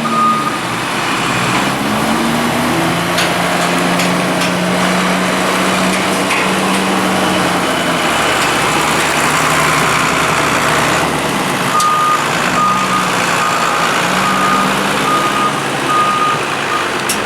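Diesel engine of the silage-clamp machinery running, its pitch rising and falling as it works under load. A reversing alarm beeps in an even series at the very start and again from about twelve seconds in until just before the end.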